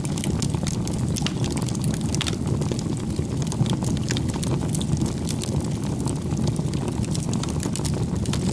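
Wood fire burning: a steady low rumble with frequent sharp crackles and pops.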